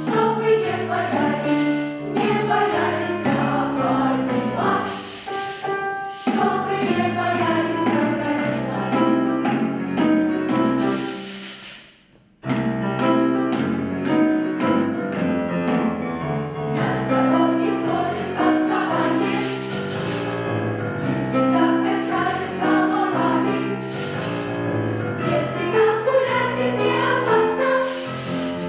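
Children's choir singing with instrumental accompaniment; the music fades almost to nothing about twelve seconds in, then starts again abruptly.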